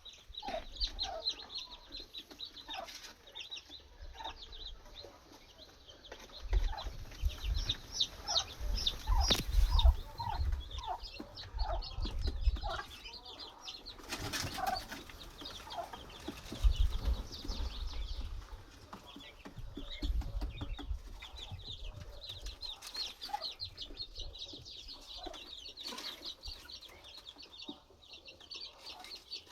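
Domestic poultry calling: a steady chorus of short, high peeps over scattered lower clucks, with bursts of low thumping in the middle.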